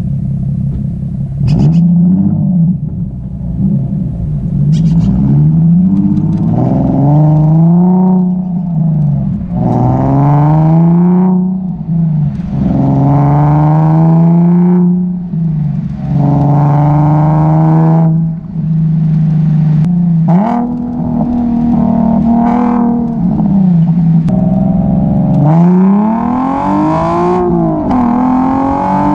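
Nissan 370Z Nismo's 3.7-litre V6 running loud through a homemade muffler delete as the car accelerates through the gears: the engine note climbs and drops sharply at each shift, again and again, with a few steadier stretches between pulls.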